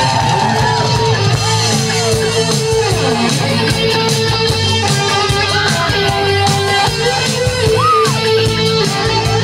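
Live rock band playing an instrumental break between vocal lines: electric guitar playing sliding, swooping notes over a steady bass and drum beat.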